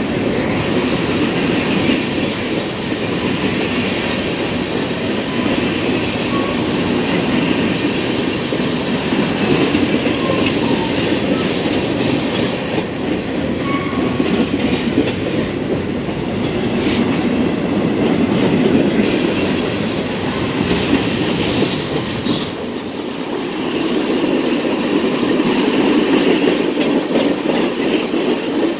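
Freight cars (covered hoppers and tank cars) rolling past close by: a steady rumble of steel wheels on rail with scattered clicks, easing briefly about three-quarters of the way through.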